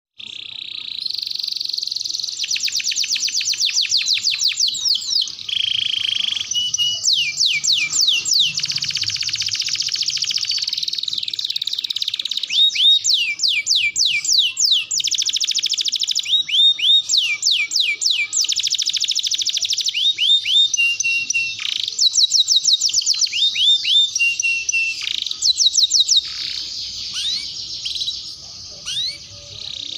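Domestic canary singing a long, unbroken song of fast trills and rolls, mixing very rapid repeated notes with slower runs of sweeping slurred notes and short held whistles.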